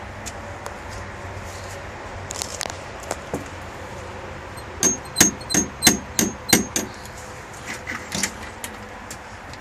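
Rapid knocking on a door: a few light taps, then a run of about seven hard knocks in two seconds with a slight ringing, then a couple of fainter taps.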